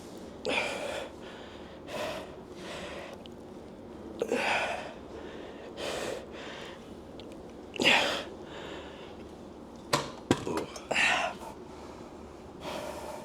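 A man breathing hard and forcefully, one loud breath every second or two, as he strains through a set of seated calf raises taken to failure. A few sharp clicks or knocks come about ten seconds in.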